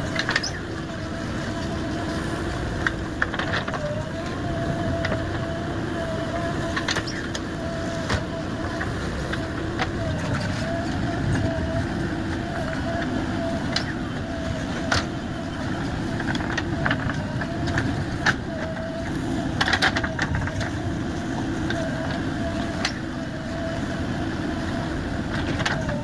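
JCB 3DX backhoe loader's diesel engine running steadily at work, with a steady whine that dips briefly every second or two and scattered sharp metallic clanks.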